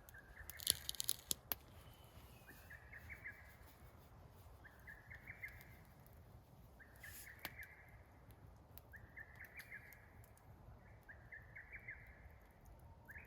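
An animal calling for a mate in breeding season: short trilled calls of rapid notes, each about a second long, repeated about every two seconds. A few sharp clicks sound about a second in.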